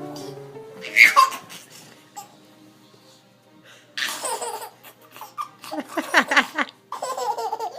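A baby laughing in several bursts, with a loud short outburst about a second in.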